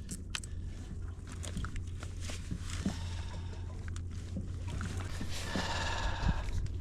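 Water sloshing against a kayak hull, with scattered light clicks and knocks and a brief splash near the end.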